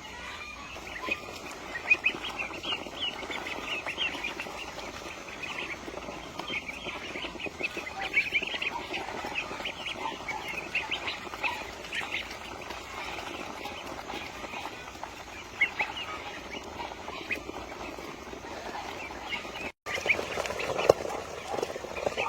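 Flock of chickens calling, with many short high chirps throughout and some lower clucking. The sound drops out for an instant about twenty seconds in.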